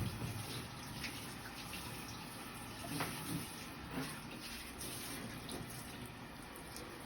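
Tap water running steadily in a bathtub or sink while a cat is being washed, with a few brief louder sounds about three and four seconds in.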